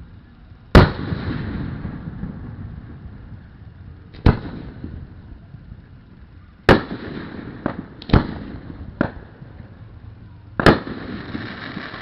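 Aerial fireworks shells bursting overhead: about seven sharp booms at irregular intervals, a few of them close together near the middle, each followed by a rolling rumble that dies away.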